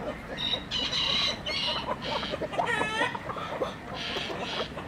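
Chickens clucking, a run of short calls with one longer call about three seconds in.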